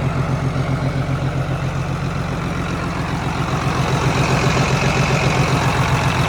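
John Deere 8220 tractor's six-cylinder diesel engine idling with an even pulsing beat, running pretty decent; it grows a little louder about four seconds in.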